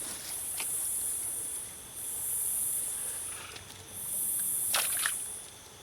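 Night chorus of insects: a high-pitched buzzing that swells and fades in pulses lasting about one to two seconds each. A single sharp knock or splash comes about five seconds in.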